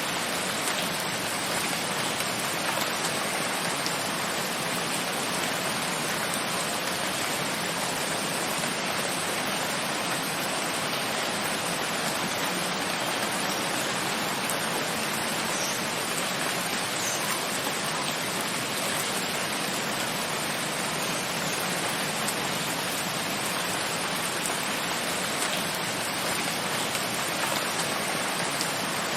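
Steady rainfall, an even hiss of rain falling with no breaks.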